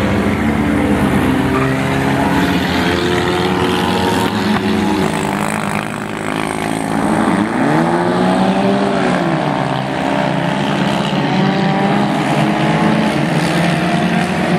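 Several Warrior-class race cars' engines running at racing speed together, their pitch rising and falling as cars accelerate and go by; one car sweeps past with a clear rise and fall in pitch about halfway through.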